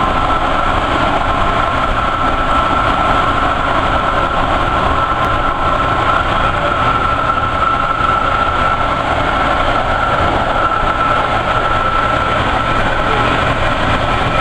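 Portland MAX light-rail train running, heard from inside the car: a steady rumble and rush of motion with a high, even whine that fades out near the end.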